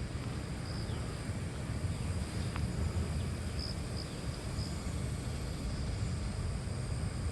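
A steady, low rumbling drone in the open air, which the recorder takes for a strange sound coming from the sky. A few faint high chirps come a little past the middle.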